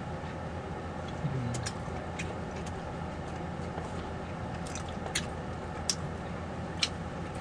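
A person chewing food close to the microphone, with small sharp mouth clicks every second or so over a steady low background hum.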